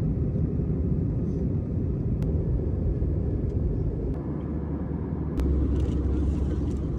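Steady low vehicle rumble with a few faint clicks; the deepest part of the rumble strengthens about five seconds in.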